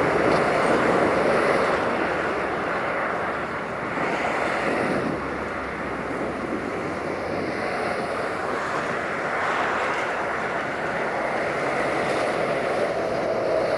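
Diesel multiple unit running away along the track, a steady rumble of engine and wheels with wind noise on the microphone.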